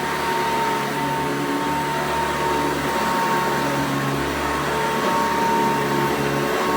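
1991 Hoover Encore upright vacuum cleaner running on carpet: a steady motor hum with a high, even whine. The low rumble changes a few times.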